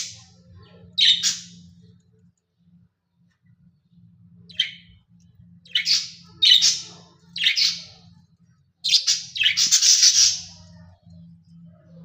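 Budgerigars chirping and squawking in short, scratchy calls, a few seconds apart at first, then a longer string of calls about nine seconds in, over a faint low hum.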